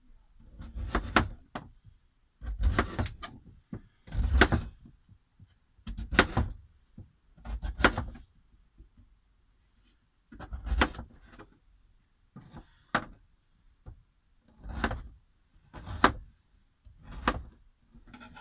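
Celery being cut with a knife on a chopping board: about a dozen slow, separate cuts, one every second or two, each a short crunch through the stalk ending on the board.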